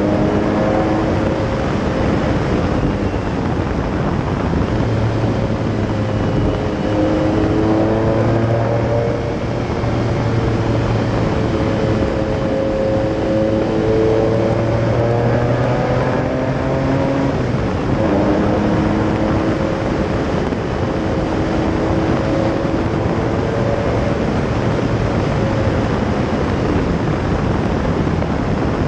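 Lamborghini Diablo SE30's V12 engine running on the move, heard from right on the engine cover, its pitch rising and falling several times as the car speeds up and eases off. Heavy wind and road rush lies under the engine note.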